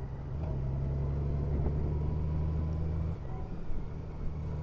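Motorcycle engine running at a steady cruise, a low drone that eases off briefly about three seconds in and then picks back up.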